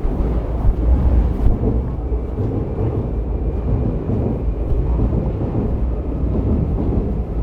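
Seoul subway train running: a steady deep rumble of wheels and running gear, with a faint steady high whine over it from about two seconds in.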